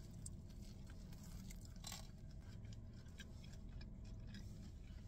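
Faint biting and chewing of a breaded barbecue chicken wing, with scattered small crunching ticks, one sharper about two seconds in, over a low steady hum.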